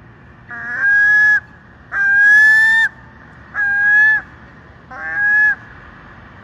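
A gull calling: four loud, drawn-out calls about a second and a half apart, each beginning with a quick upward slide and then held on a level note.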